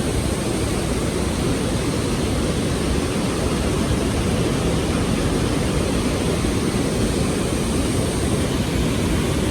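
Waterfall at Niagara Falls heard close up: a dense, steady rush of falling water, heaviest in the low end.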